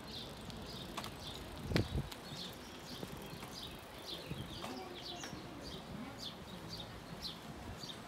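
Small birds chirping in the trees: short high chirps, several a second, over a steady low outdoor hum. A single low thump comes about two seconds in.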